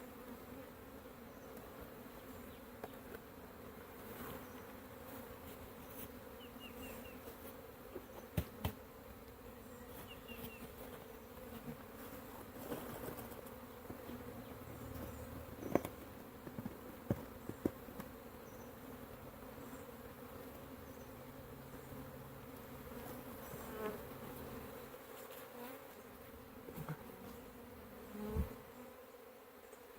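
A crowded, disturbed honeybee colony buzzing steadily as its nest in a wooden birdhouse is opened up, with a few sharp knocks or clicks from the work on the box.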